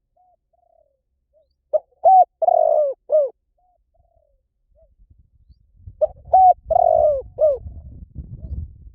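Spotted dove cooing: two phrases of several short, loud coos, the second about four seconds after the first, with a few soft coos before. A low rumble sits under the second phrase.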